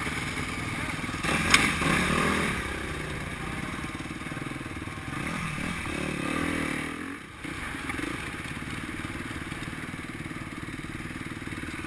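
Motocross bike engine revving up and down as it rides the track, with surges about two seconds in and again around six seconds, and a brief drop-off just after seven seconds. A short sharp knock about one and a half seconds in.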